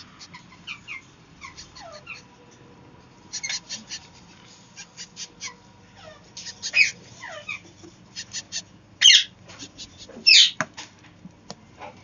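Cage birds calling at close range: a scattered string of short chirps that each drop in pitch, with two much louder calls near the end.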